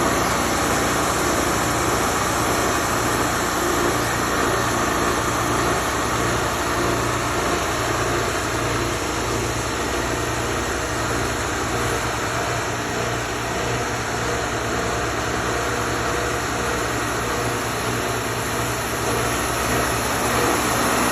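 Wood-Mizer LT40 portable sawmill's engine running steadily, a constant mechanical drone with no breaks.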